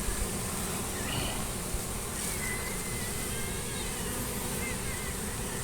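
Honey bees from a small swarm buzzing steadily around a tree limb and swarm box.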